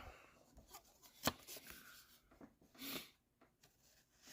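Faint handling noises from a coin's presentation packaging and paperwork: one sharp click about a second in, with soft taps and a short papery rustle near the end.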